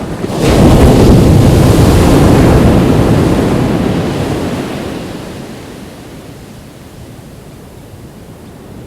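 Ocean wave breaking on a beach: a sudden surge of surf about half a second in that holds for a few seconds, then washes out and fades to a steady hiss by about six seconds in. Some wind noise on the microphone.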